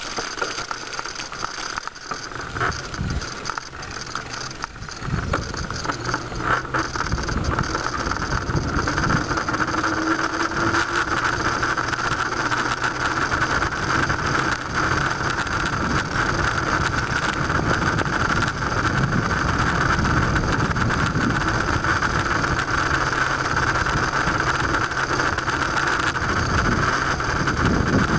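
A bicycle being ridden, with rattling and a rough, rumbling rush of noise on the microphone. It grows louder about five seconds in and then holds steady.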